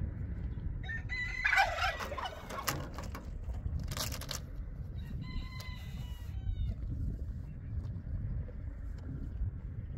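A rooster crowing about a second in, followed a few seconds later by a shorter call in falling steps, over a steady low rumble.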